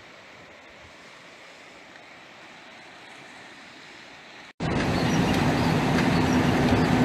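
Faint outdoor hiss, then after a cut about four and a half seconds in, the loud, steady rush of a flooded creek running high, with a steady low hum beneath it.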